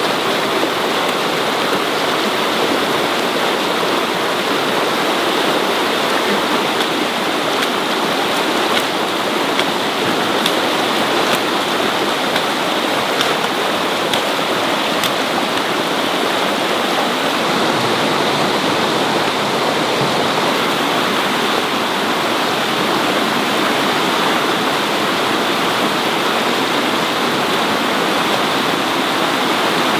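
Loud, steady rush of water with no break, like heavy rainfall or fast-running water.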